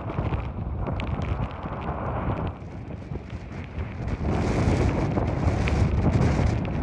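Storm wind buffeting the microphone with a heavy rumble over the hiss of torrential rain. It eases briefly in the middle, then comes back stronger and hissier about four seconds in.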